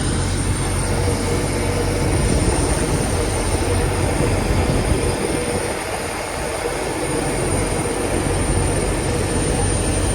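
Chao Phraya Express Boat's diesel engine running with a steady low drone. The drone eases for a couple of seconds about halfway through, then picks up again.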